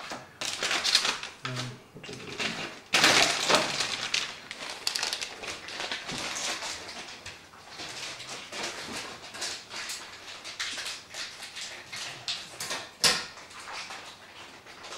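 Handling noise of SATA data cables and PC parts: irregular rustling and small clicks, loudest about three seconds in, with one sharp click near the end.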